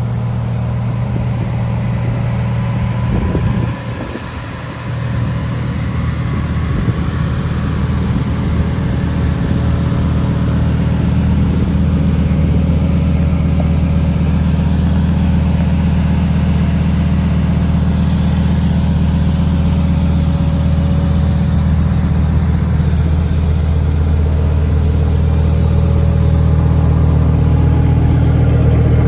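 Lamborghini Huracán Evo Spyder's 5.2-litre V10 running steadily at low revs, with a short dip in level about four seconds in and the sound slowly getting louder toward the end.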